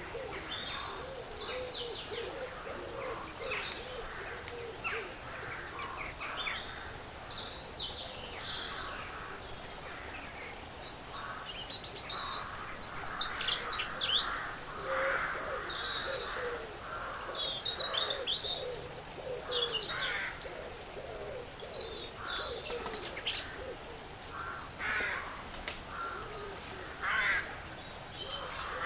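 Several woodland birds chirping and trilling at once, with lower calls underneath. It gets busier and louder about twelve seconds in.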